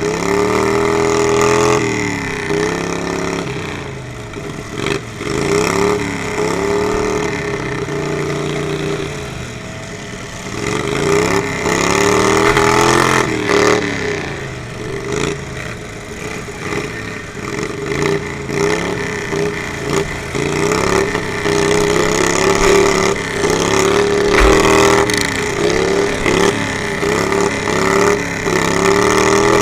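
Racing lawnmower engines, loud and continuous, their pitch falling and climbing again every couple of seconds as they back off and accelerate, with more than one engine heard at once.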